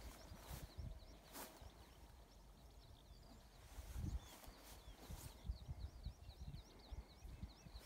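Faint outdoor birdsong: a small bird singing rapid runs of short, high chirps, thickest in the second half, over low thumps and rumble.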